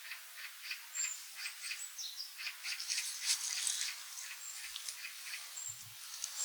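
Small forest birds calling in a rapid series of short notes, about three a second, with a few thin high notes mixed in. There is a soft low thump near the end.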